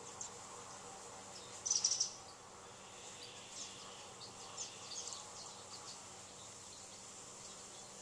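Outdoor birds calling: one short, louder high call about two seconds in, then a scatter of brief high chirps, over a faint steady high-pitched drone.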